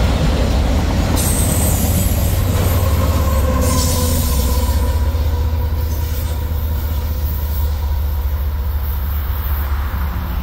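CSX freight train of autorack cars rolling past close by, a steady low rumble of wheels on rail. A thin squeal of wheels against the rail rings for a few seconds around the middle, and the sound slowly fades as the train moves off.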